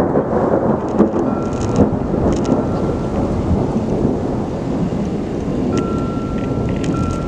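Thunder rumbling continuously, a little louder in the first second.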